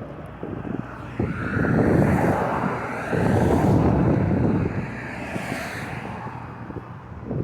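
Wind buffeting the microphone during a bike ride, a rushing noise that swells loudest between about two and four seconds in.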